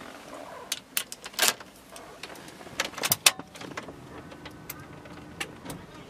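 A series of sharp clicks and knocks, with the loudest about a second and a half in and just after three seconds, over a steady low hum: hands working controls inside a car's cabin.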